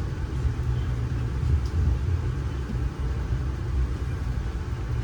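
Steady low rumble of a passenger train rolling along, heard from inside the coach.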